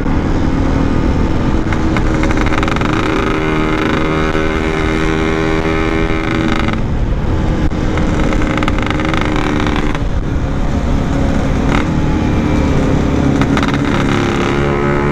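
Yamaha RX-King's 135 cc two-stroke single running under way through its exhaust, the pitch rising as it revs and dropping back briefly about seven and ten seconds in, as on gear changes.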